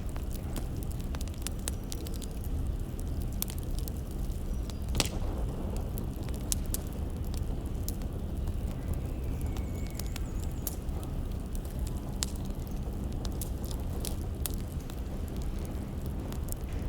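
Wood fire crackling: a steady low rumble with frequent sharp, irregular pops, one of them louder about five seconds in.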